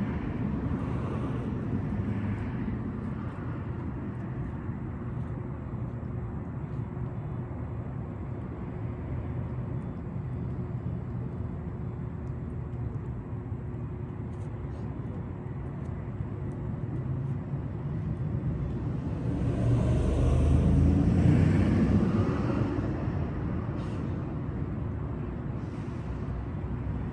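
Steady low outdoor rumble of road traffic, with a vehicle passing about twenty seconds in, growing louder and then fading away.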